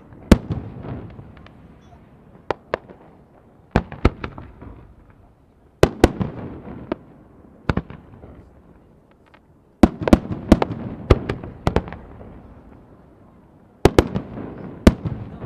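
Fireworks bursting: sharp bangs in clusters of two or three, each followed by an echoing rumble, with a rapid run of bangs about ten seconds in.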